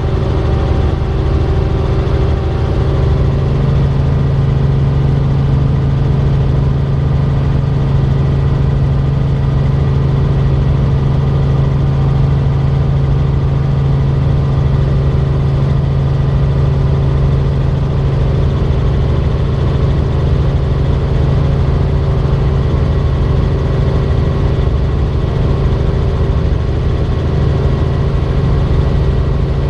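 Robinson R44 Raven II helicopter in flight, its six-cylinder Lycoming IO-540 engine and rotor running at a steady pitch as a loud, even drone with a deep hum.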